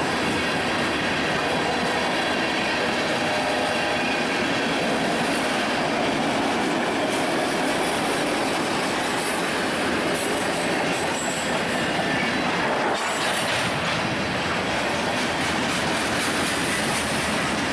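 A train rolling past with the steady noise of its wheels on the rails, and a brief faint high wheel squeal about eleven seconds in.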